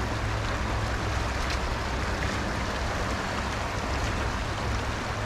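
Stream water running steadily, an even rushing sound with a low rumble.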